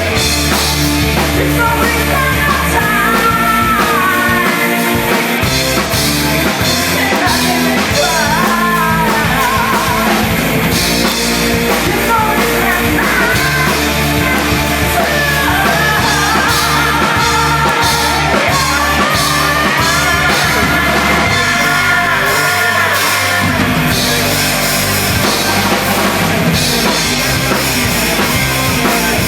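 A live post-hardcore band playing loud, with guitars, bass and drum kit, and vocals singing over much of it.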